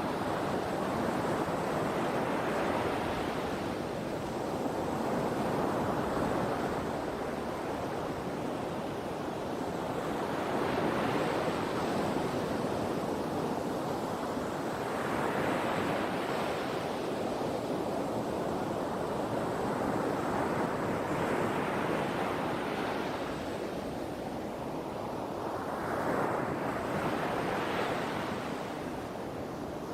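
Sea waves breaking and washing on the shore, a continuous surf that swells and ebbs every few seconds, with some wind.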